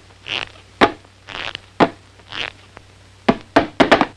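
Cartoon sound effects: short hissing breath-like bursts alternating with sharp clicks, about one of each per second, ending in a quick run of clicks.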